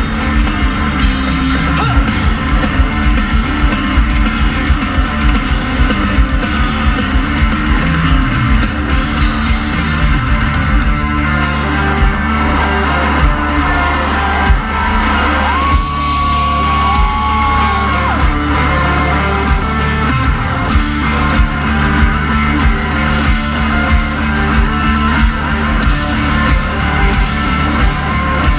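Live rock band playing loud, with electric guitars and drums, and a single held note about halfway through.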